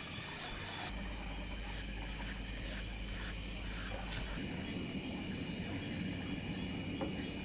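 Steady chorus of insects, such as crickets, trilling at several high, even pitches.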